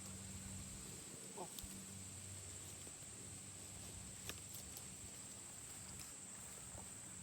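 Faint outdoor ambience: a steady high-pitched hum, with a few faint ticks now and then.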